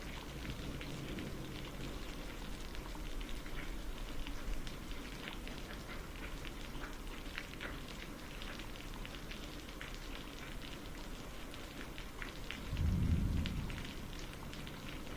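Steady rain falling, with many small drops pattering on a surface. A brief low rumble rises and fades near the end.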